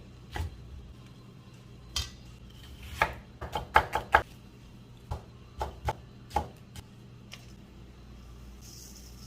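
Kitchen clatter during food preparation: a dozen or so irregular knocks of a knife or utensils on a board and dishes, with a quick run of four or five about three seconds in.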